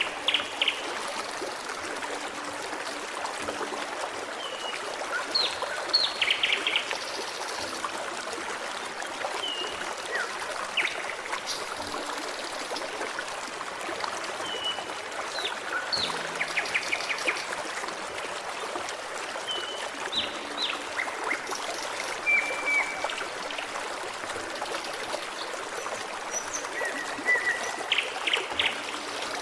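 Forest stream babbling steadily, with songbirds calling over it in short whistles and quick trills every few seconds.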